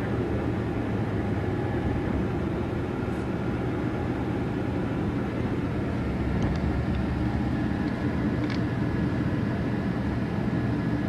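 Steady engine and road noise of a truck driving, heard from inside the cab: a continuous low drone.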